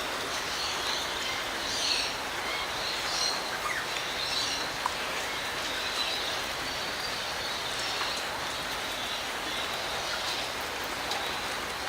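Steady hiss of light rain falling, with a few faint bird chirps in the first few seconds.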